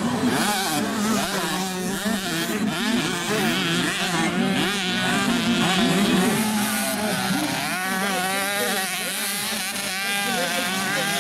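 Several 65cc two-stroke motocross bikes racing, their engines overlapping and revving up and down as they accelerate and shift.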